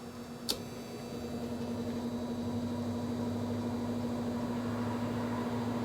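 A switch clicks, then an old electric fan motor hums and slowly builds up, sluggish to get going; the owner thinks it just needs to warm up and probably needs a drop of oil.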